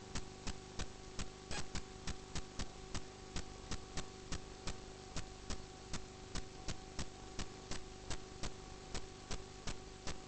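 Steady mechanical ticking, about three sharp clicks a second, over a constant low hum.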